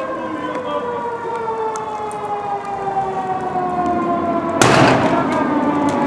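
Fire engine siren sounding, its pitch falling slowly and steadily as it winds down. About four and a half seconds in, a short, loud burst of noise lasts about half a second.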